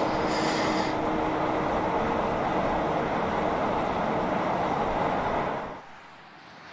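Heavy truck on the road, a steady wash of tyre and engine noise that cuts off abruptly near the end.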